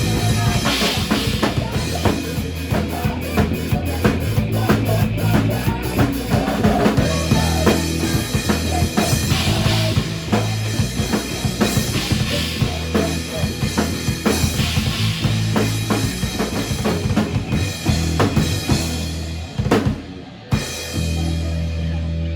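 Band music led by a drum kit, with kick drum and snare hits over a low bass line. The playing breaks off about twenty seconds in, leaving a steady low tone.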